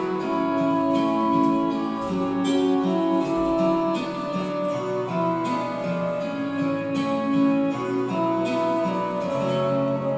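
Instrumental music led by acoustic guitar, notes plucked and strummed with the chords changing every second or two.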